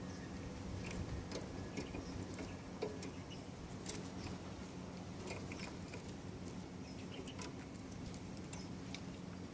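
Outdoor ambience: a steady low hum with scattered light clicks and patter, and a few short, faint bird chirps.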